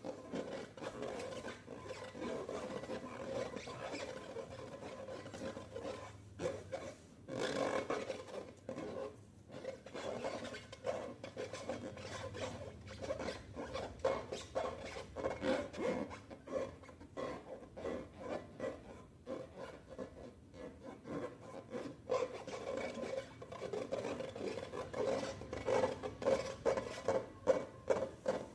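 Slime being mixed and worked by hand: a continuous run of small sticky crackles and clicks, becoming louder and more distinct near the end.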